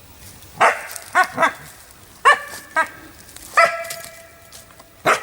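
A trapped wild dog, held in a rubber-jaw leg-hold trap, gives a string of short high yelps and barks, then a longer held whining yelp about three and a half seconds in. A sharp click comes near the end.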